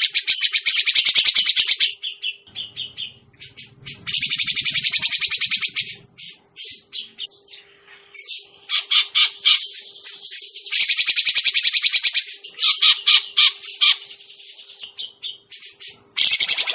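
Grey-cheeked bulbul (cucak jenggot) calling, as used for luring birds: runs of rapid, harsh chattering notes about two seconds long, alternating with shorter scattered notes.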